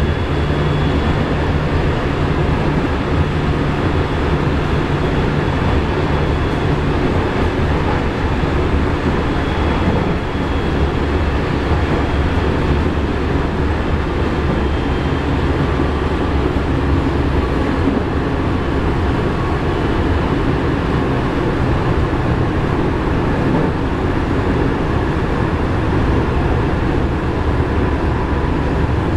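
Nankai 1000 series electric commuter car heard from inside over its bogie while running at speed: a steady rumble of wheels and bogie with faint whining tones running through it. This bogie's odd running noise (異音) is what the recording sets out to capture.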